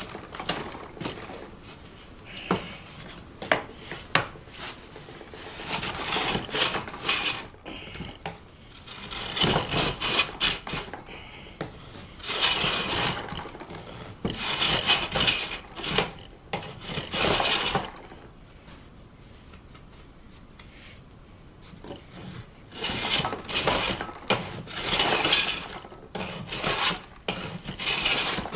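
Hand plane shaving the edge of plywood, in runs of quick scraping strokes with pauses between.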